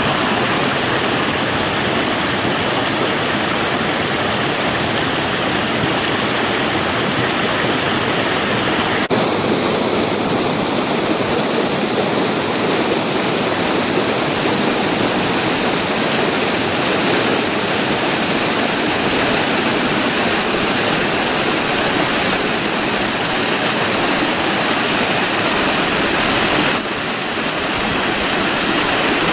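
Creek water rushing steadily over its bed. About nine seconds in the sound changes abruptly and turns brighter and more hissing, and near the end it dips briefly and changes again.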